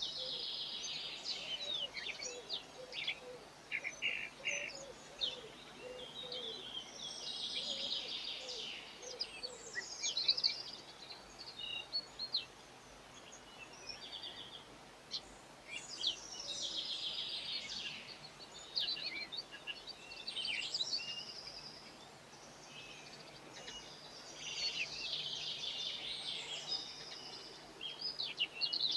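Small songbirds twittering and chirping in four bouts of a few seconds each, high-pitched, with scattered single calls between.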